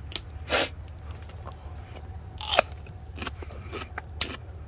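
A man chewing food close to the microphone, with scattered wet mouth clicks and smacks, over a steady low hum.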